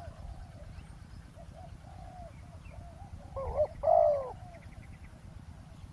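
Spotted dove cooing: a run of soft, low coo notes that swells into two louder, drawn-out coos about three and a half seconds in.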